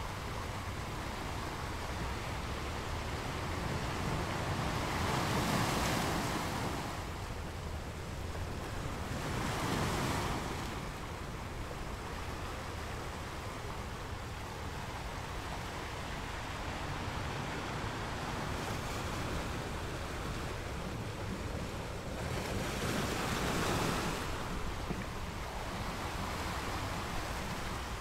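Ocean surf: a steady wash of churning water with three louder swells as waves break, about 6, 10 and 24 seconds in.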